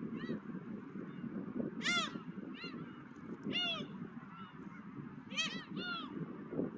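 Gulls calling over and over in short, arched, rising-then-falling cries, several birds overlapping, the loudest about two seconds in. Under them runs a steady low rush of wind.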